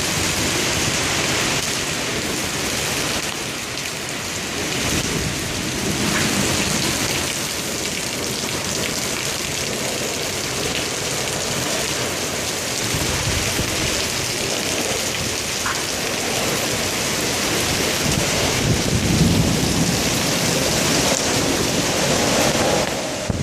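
Heavy rain pouring down hard in a severe thunderstorm, a dense steady hiss. Deeper rumbling swells rise about halfway through and again near the end.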